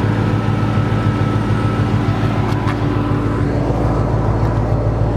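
Chrysler 300 SRT8's 6.1-litre Hemi V8 idling steadily through its Flowmaster exhaust, a low even drone.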